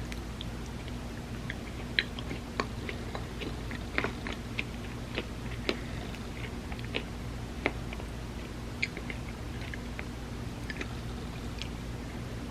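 Close-miked chewing of an ice cream sandwich: irregular wet mouth clicks and smacks. A steady low hum runs underneath.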